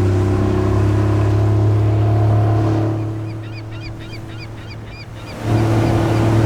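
A long, steady low tone that fades out a little before the middle and starts again abruptly near the end. In the gap, a quick run of short bird-like chirps.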